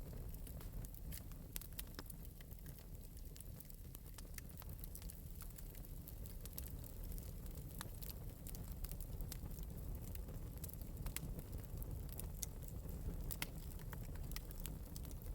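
Fire crackling in an open metal fireplace: irregular sharp pops and snaps over a steady low rumble of flames.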